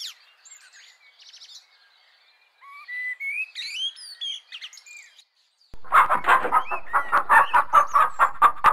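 Birds chirping softly with short sweeping calls. About six seconds in, a louder, fast run of repeated bird calls starts, several a second, and keeps going.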